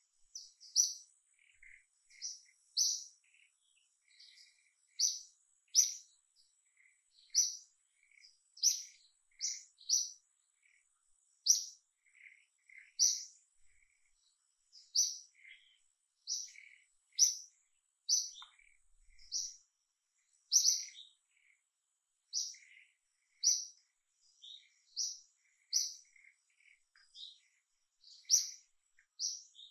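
A bird chirping repeatedly: short, high notes, roughly one or two a second, with fainter lower notes between them.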